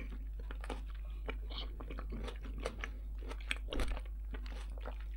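A person chewing a mouthful of food, with irregular crunches and mouth clicks, a little louder just before four seconds in.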